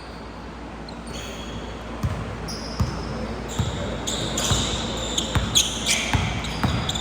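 Basketball bouncing on a gym floor, the bounces starting about two seconds in and coming irregularly, with short high sneaker squeaks in between, in a large reverberant hall.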